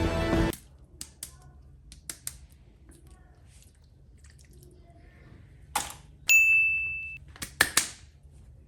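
Music cuts off about half a second in. Then faint light clicks and taps, with a single high electronic beep lasting nearly a second about six seconds in, followed by a few sharper clicks.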